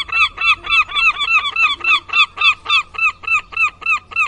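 Domestic fowl calling: a rapid, even series of short, arched calls, about five a second.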